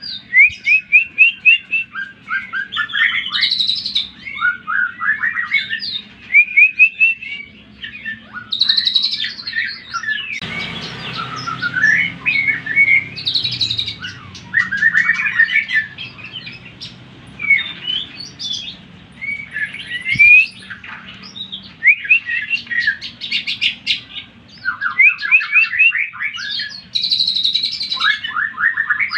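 Cucak ijo (green leafbird) song: fast, varied runs of short repeated chattering notes, trills and whistles. It is played as a lure to rouse other leafbirds into singing. About ten seconds in there are a few seconds of hiss under the song.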